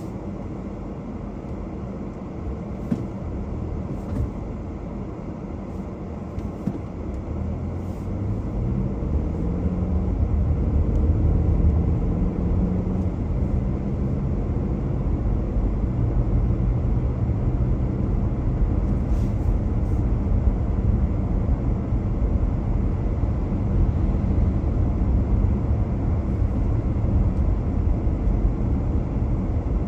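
A car driving: low engine and road rumble. About eight seconds in, the engine note climbs in steps as the car speeds up, and after that it runs louder and steady.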